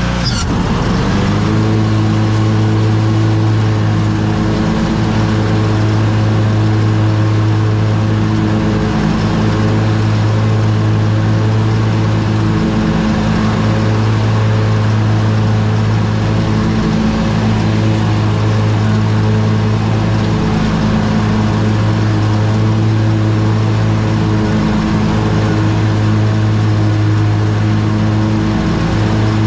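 Riding lawn mower's engine running steadily while mowing. Its note changes and settles lower about a second in, then holds, with brief dips every few seconds.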